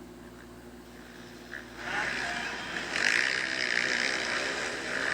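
Motocross dirt bike engines running on the track, faint at first, then getting louder about two seconds in as bikes rev harder and come closer.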